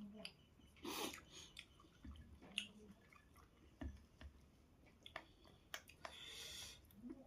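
Faint chewing and wet mouth sounds of someone eating, with scattered soft smacks and clicks.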